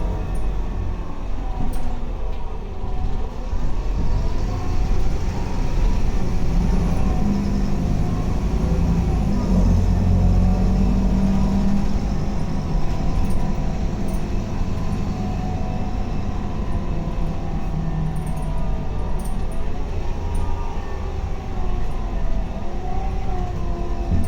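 Scania K280UB bus engine running under load, its pitch rising and falling several times as it accelerates and eases off.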